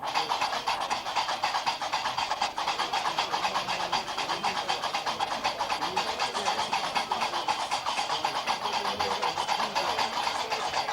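Gnawa qraqeb (iron castanets) clattering in a fast, continuous rhythm.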